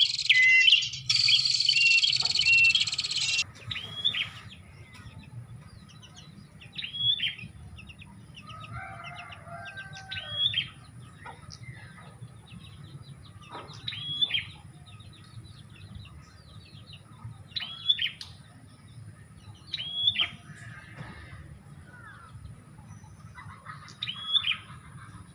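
Prenjak (prinia) song used as a bird lure: a loud, dense run of chirping that cuts off after a few seconds. Then a short rising-and-falling call repeats about every three seconds over a faint hum.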